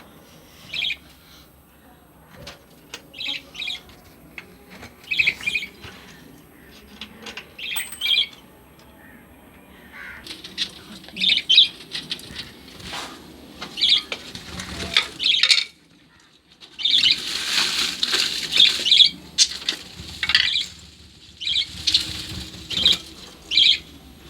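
Pet lovebirds giving short, sharp chirps every second or two, with a couple of seconds of wing-flapping noise about two-thirds of the way in.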